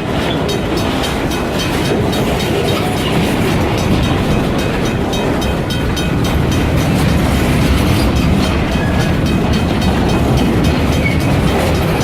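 Freight train rolling past, a steady rumble and rattle of its cars' wheels on the rails.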